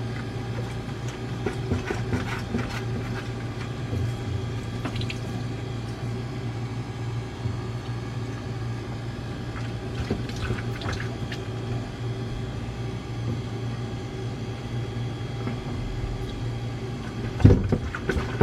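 Manitowoc ice machine running with a steady hum while water runs and a drain hose is worked loose, with scattered small clicks and knocks and two louder knocks near the end.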